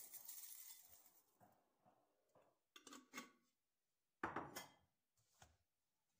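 Faint household handling sounds: a soft rustle, then a few light clinks and knocks as objects are set down, the loudest knock about four seconds in.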